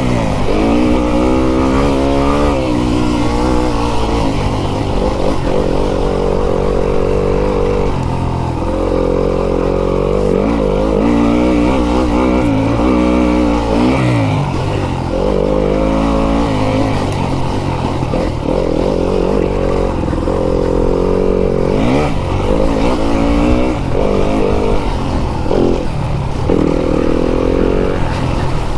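Fantic enduro dirt bike's engine under hard riding, revs climbing and dropping again and again as the throttle is worked and gears are changed, with short stretches held at high revs.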